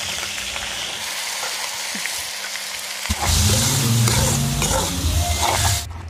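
Potato pieces sizzling in hot oil in an iron wok. About three seconds in it turns louder as squid pieces fry while a metal spoon stirs and scrapes the pan, then it cuts off suddenly near six seconds.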